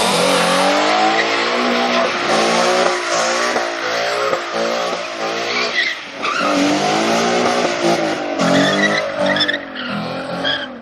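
Ford Mustang doing a burnout: the engine revs hard in repeated rises and falls while the spinning rear tires screech. There is a brief lull about six seconds in before the revving picks up again.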